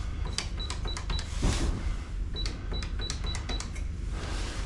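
Electronic door keypad beeping as a code is punched in: two runs of short high beeps, one per button press with a click, the second run about a second and a half after the first.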